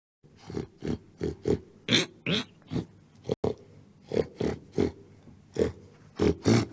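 Pig grunting: a run of short grunts, about three a second.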